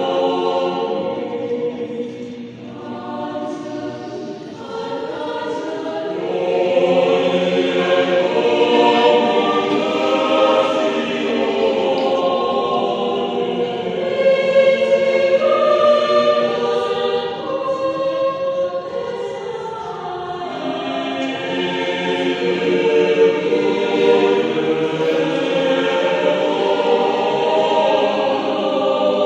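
Mixed adult choir of men's and women's voices singing a sacred choral piece in held chords. It goes softer a few seconds in, then swells louder again.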